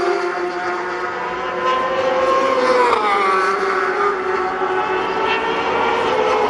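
Racing superbike engine running hard at high revs, its pitch climbing, then dropping sharply about three seconds in as it changes gear, then climbing again.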